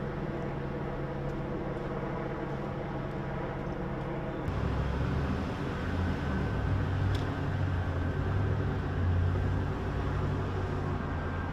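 Vehicle engine running steadily with a low hum; about four and a half seconds in a deeper, louder engine rumble joins and continues.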